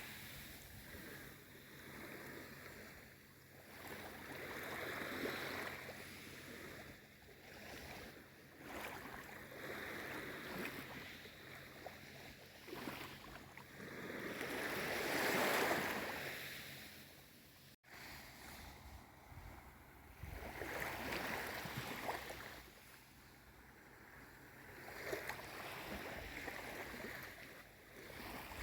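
Calm sea: small waves washing in and drawing back, each swell rising and fading every few seconds, with the biggest wash about halfway through. The sound breaks off for an instant about two-thirds of the way in.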